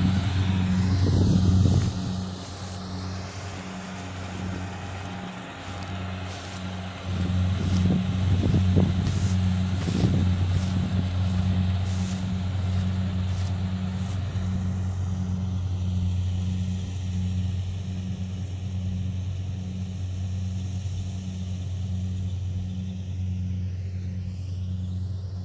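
Kubota DC70 combine harvester's diesel engine running steadily under working load, a deep hum with an even pulse. From about six to fourteen seconds in, a series of sharp clicks and rattles sits over it, and the sound is loudest there.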